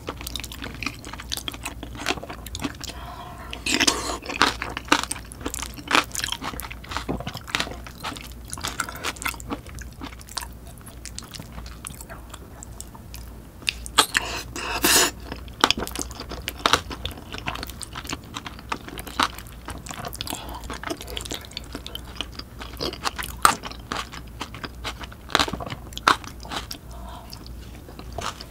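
Close-miked chewing and wet mouth sounds of a person eating spicy curry rice from a spoon, with a dense run of small clicks and louder clusters of mouth noise a few seconds in, about halfway through as a spoonful goes into the mouth, and again near the end.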